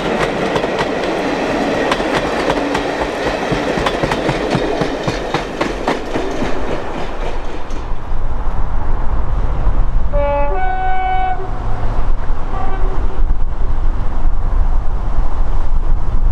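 Railway coaches rolling past with a steady clickety-clack of wheels over rail joints. Then, after a change of scene, an approaching diesel locomotive sounds its two-tone horn, a low note then a higher one, about a second and a half in all, with a short toot after it, over a low rumble.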